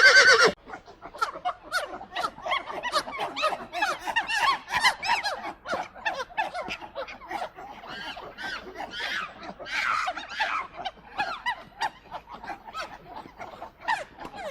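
A horse's whinny ends about half a second in. After it, many animals chatter in a dense, overlapping run of short, squeaky, quickly bending calls.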